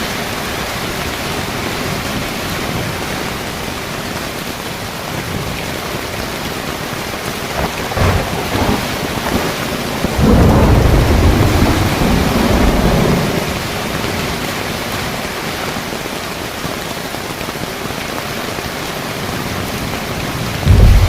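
Heavy rain beating steadily on a car rooftop tent, with rolls of thunder: a short rumble about eight seconds in, a longer, louder rumble from about ten to thirteen seconds, and another beginning near the end.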